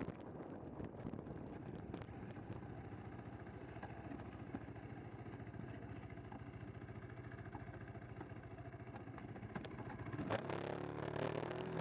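KTM 390 Adventure's single-cylinder engine running at low revs on the move, with a few small clicks over it; about ten seconds in it opens up and the engine note rises as the bike accelerates.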